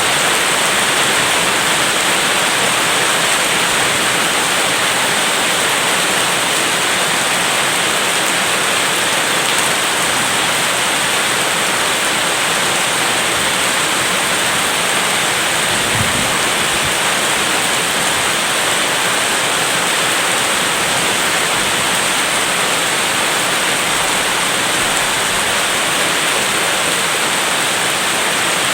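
Steady heavy rain: a dense, even hiss of falling water with no letup, and a brief low thud about halfway through.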